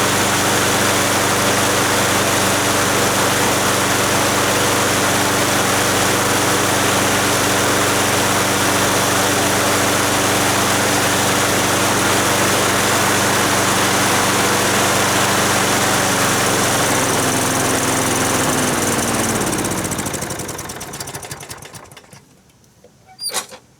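Small lawn mower engine running steadily, then slowing and dying out about twenty seconds in, with a short sharp sound near the end. The owner says it wants to quit as soon as it comes off choke, and puts it down to the carburettor needing cleaning.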